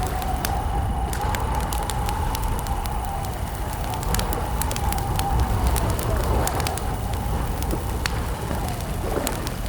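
Wood campfire crackling, with sharp irregular pops over a steady low rumble. A faint wavering tone runs beneath it and dips near the end.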